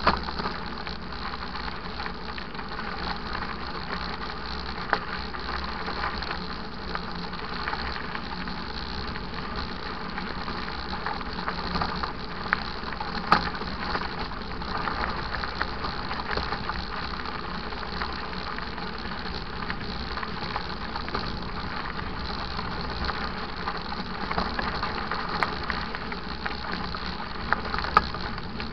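Mountain bike riding over a rough dirt trail: a steady rumble of tyres and rattling of the bike, with a few sharp knocks from bumps.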